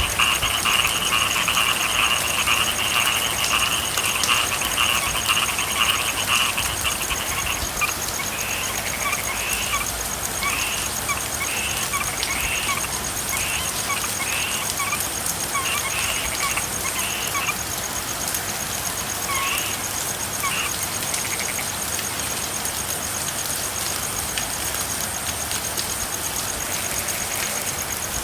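Frogs calling over steady rain: a dense chorus of repeated calls thins out after about seven seconds into scattered calls, which stop about twenty seconds in, leaving only the even hiss of rain.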